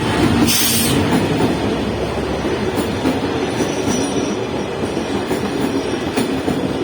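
Passenger train rolling into a station, steady rumble with wheels clicking over the rail joints. A short burst of hiss comes about half a second in, and a brief high wheel squeal near four seconds.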